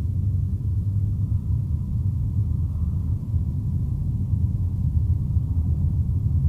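Steady low rumble of a moving vehicle heard from inside, with no clear engine note above it.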